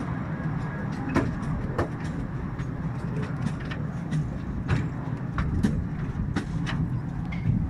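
Small narrow-gauge park railway train rolling along the track, heard from aboard an open passenger car: a steady low rumble broken by irregular sharp clicks from the wheels on the rails.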